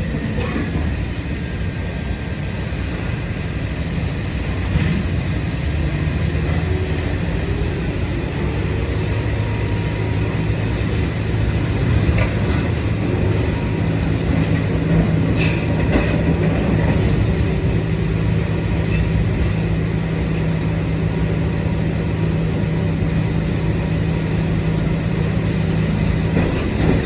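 Idromec T 650 CLS scrap metal shear baler running: a steady low mechanical hum from its power unit, getting louder after about five seconds, with a few scattered metallic knocks from the scrap being worked.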